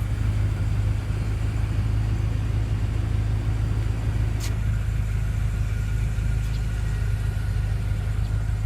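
Steady low hum of the BMW M5's twin-turbo 4.4-litre V8 idling, with a single sharp click about four and a half seconds in.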